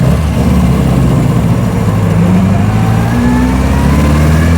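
1924 Austin Seven's small four-cylinder side-valve engine pulling under load, heard from inside the car, its pitch rising steadily from about halfway in as the car accelerates.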